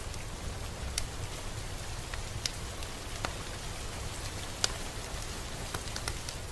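Steady rain with individual drops ticking on a surface now and then, the sharpest about four and a half seconds in, over a low rumble.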